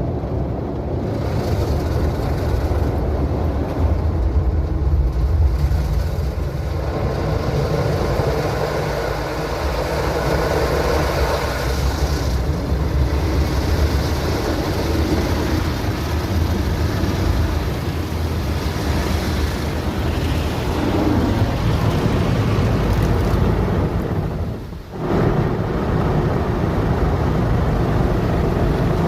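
Automatic car wash machinery running over the car, heard from inside the cabin: a steady loud rush and rumble that dips sharply for a moment about 25 seconds in, then comes straight back.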